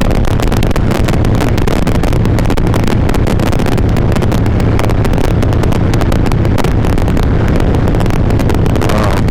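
Harley-Davidson V-twin motorcycle engine running steadily at cruising speed, heard through a helmet chin microphone with wind rush over it. The sound is harsh and crackly, the recording fault the rider is trying to cure, which he holds to be unrelated to wind.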